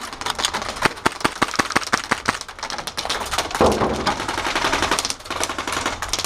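Airsoft rifles firing in quick strings of sharp clicking shots, fast runs of full-auto fire with short gaps between them.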